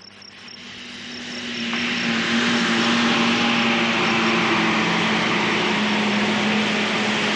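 Engines of an open touring car and a military truck approaching, their drone growing louder over about two seconds and then running steadily as the vehicles draw up.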